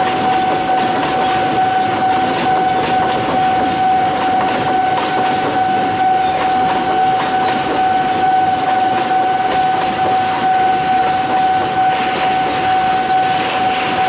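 Container freight train rolling steadily past, its wagons rumbling and clattering over the rails. A steady high tone from the level crossing's warning signal holds through it. More hiss builds near the end.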